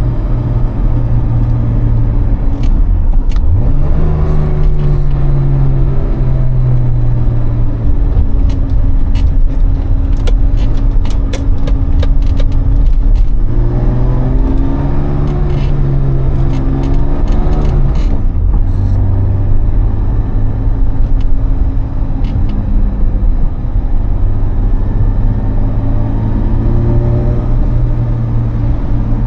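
BMW E30 325i's 2.5-litre M20B25 straight-six, breathing through an Eisenmann exhaust without a catalytic converter, running under way. Its note holds steady, then drops and climbs again several times as the revs change.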